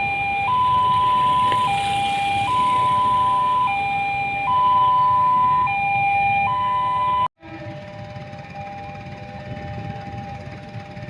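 Two-tone electronic siren alternating between a higher and a lower note, the high note held about a second, the low one a little shorter. It cuts off abruptly about seven seconds in, leaving a quieter steady background with a faint tone.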